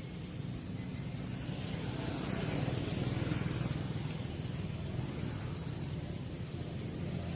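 Steady low rumble with a faint hiss above it, swelling a little in the middle.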